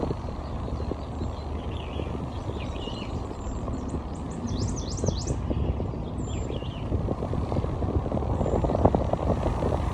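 Wind rushing and buffeting on the microphone, with a small bird twittering a few quick chirps and falling whistles in the middle.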